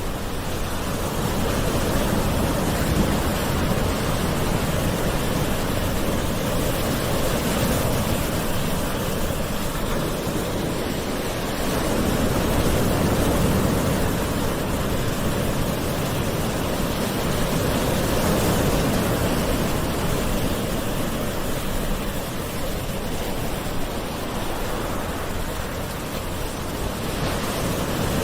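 Gentle ocean waves washing onto a shore: a continuous rushing hiss that swells and eases every few seconds.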